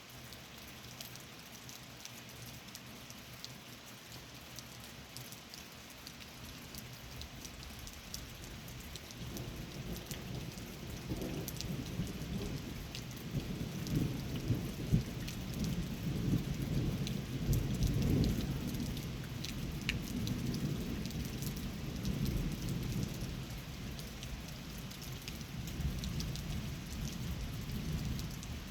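Steady rain with individual drops ticking. A long, low roll of thunder builds about a third of the way in, is loudest around the middle, then fades, and a second swell follows near the end.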